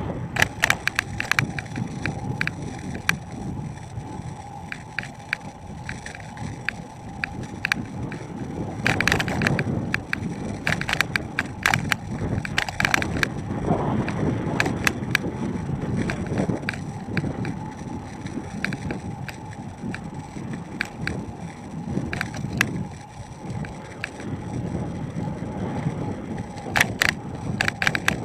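Riding noise of an electric-assist bicycle heard from a camera on the bike: steady tyre and road rumble with wind on the microphone, and frequent clicks and rattles as it goes over bumps.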